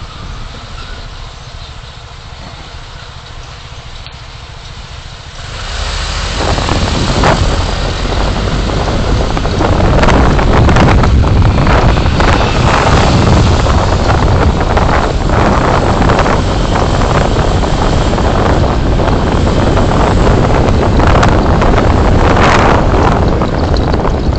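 Road and engine noise of a car driving, as picked up by its dashcam: a low, steady rumble that gets much louder about five seconds in and stays loud and rough, with wind buffeting the microphone.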